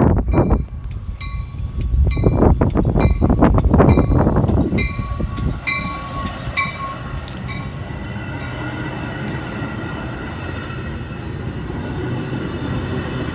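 A train passing at speed: heavy rumble and wheel clatter for the first five seconds, then a steadier, quieter running. A grade-crossing bell dings about twice a second and stops around seven seconds in.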